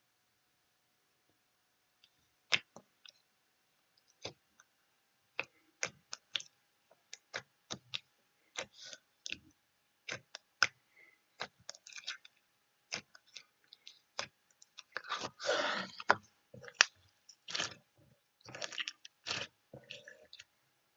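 Irregular sharp clicks and crunches, starting about two seconds in and coming every fraction of a second to a second, with a longer crackling rustle about three-quarters of the way through.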